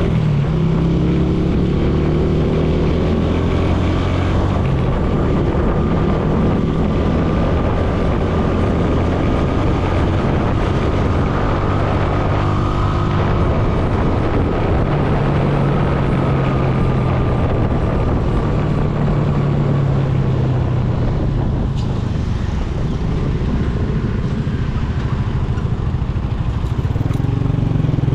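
Motorcycle engine running at steady cruising speed under a continuous rushing noise, its pitch rising as it speeds up at the start and again near the end.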